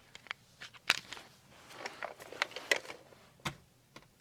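Sharp plastic clicks and rustling from handling a battery-powered animatronic Halloween prop and working its switch. The prop itself stays silent and does not start.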